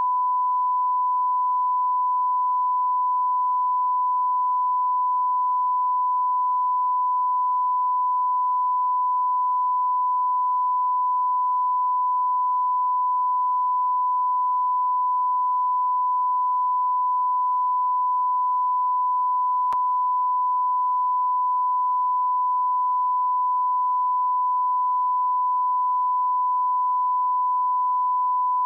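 Continuous high-pitched electronic beep: a single pure tone held steady and unbroken, with a faint click about twenty seconds in.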